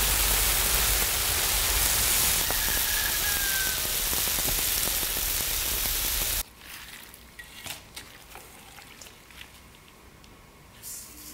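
Marinated pork with onions and green peppers sizzling on a cast-iron pot-lid griddle: a loud, even hiss that cuts off suddenly about six seconds in. Then it is much quieter, with scattered small clicks of raw pork being handled in a stainless steel bowl.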